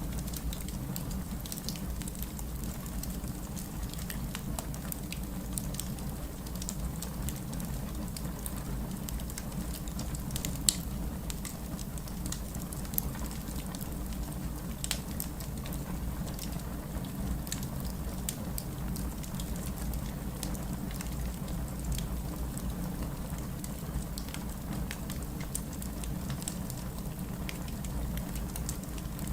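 Steady rain with the crackle of a wood fire: an even low rush of rain with scattered sharp pops and snaps, a louder pop about eleven seconds in.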